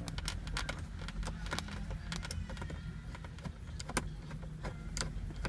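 Irregular light clicks, taps and rattles of a screwdriver and small pliers working small screws out of plastic dashboard trim, over a low steady hum.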